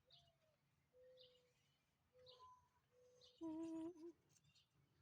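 A person humming a few short, soft notes, the last one louder and held about half a second, about three and a half seconds in. Faint bird chirps sound now and then in the background.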